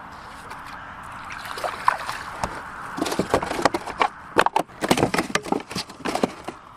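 Splashing water with a dense run of sharp knocks and clicks against a kayak, starting about a second and a half in, as a hooked sea trout is brought alongside and landed.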